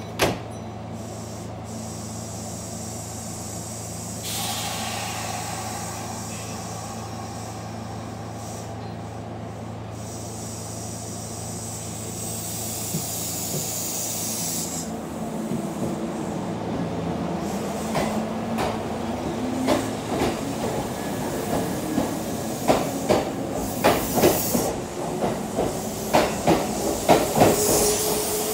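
Kintetsu limited express electric train pulling out of the platform: after a steady hum and bursts of air hiss, the motors' whine rises in pitch as it gathers speed. Wheels clack over the rail joints faster and louder toward the end.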